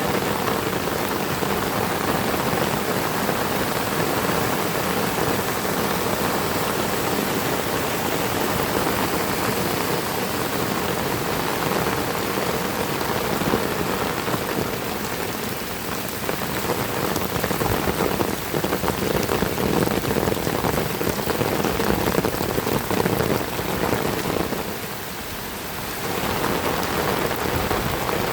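Heavy rain pouring steadily, a dense patter of drops striking surfaces, easing briefly near the end before picking up again.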